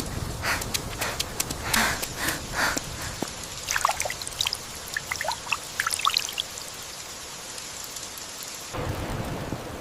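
Steady rain falling, with a run of sharp splashing taps in the first few seconds and scattered plinking drops in the middle. The sound changes abruptly near the end.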